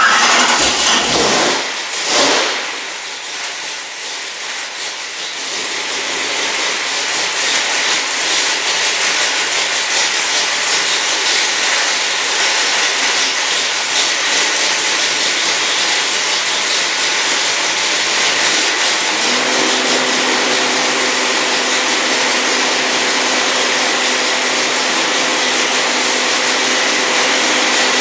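496 cubic-inch big-block Chevy V8 running on an engine dyno, loud and steady. Its level builds over the first several seconds and then holds, and a steady droning tone joins about two-thirds of the way through.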